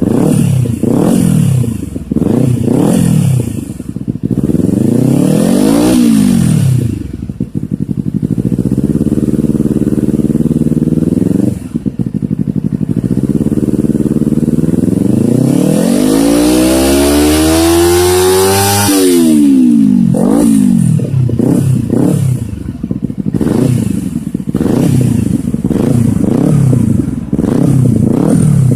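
Motorcycle engine running through an aftermarket stainless-steel exhaust with a coiled header, being revved. It opens with a run of quick throttle blips and a steadier hold, then makes a long climb to high revs that drops off sharply about two-thirds of the way in, followed by more quick blips.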